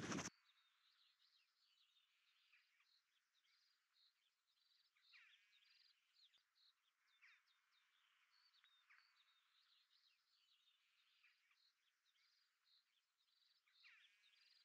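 Near silence, with faint chirps and twitters of small birds scattered throughout.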